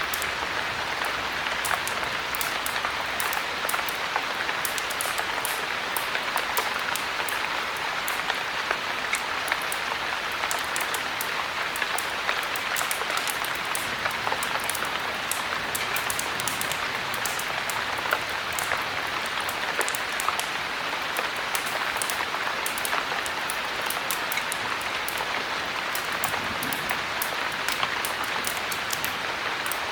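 Heavy rain falling steadily, with a scatter of small sharp ticks and pops throughout.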